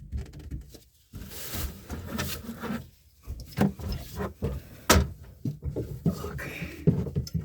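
Handling noise of a glove being pulled on and a wrench being set to a taped, threaded sink drain fitting: irregular rustling and scraping with scattered clicks and knocks, the sharpest about five seconds in.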